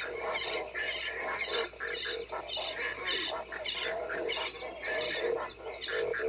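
A busy mix of short animal calls and chirps over background music, from the ride's wilderness soundtrack.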